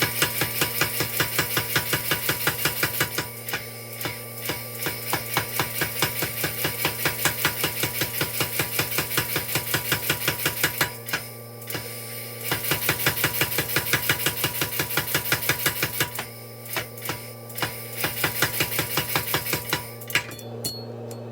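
Rapid, evenly spaced hammer blows on steel, about five a second, with a few short breaks, over a steady low hum; the blows stop shortly before the end.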